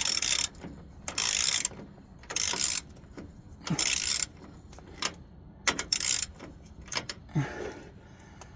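Hand ratchet wrench turning a steering-rack mounting bolt, clicking in repeated short strokes about a second apart.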